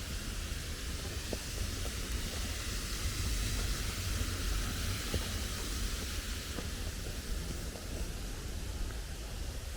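Mountain stream rushing over rocks: a steady hiss with a low rumble underneath.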